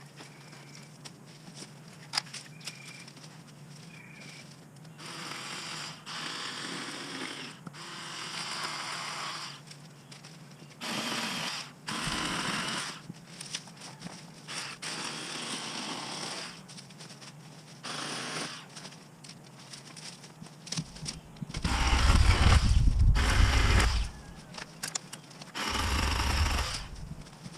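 Ryobi 40-volt battery chainsaw run in a series of short bursts of a second or two, with quiet gaps between, as it cuts into brush and small trees. The longest and loudest burst, with a deep rumble, comes near the end.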